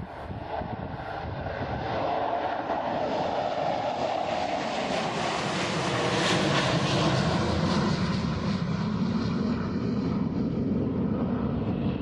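Boeing 727-200's three low-bypass JT8D turbofans at takeoff power as the jet climbs out past: the engine noise grows louder over the first two seconds, is fullest and hissiest about halfway through, and then drops in pitch as the aircraft moves away.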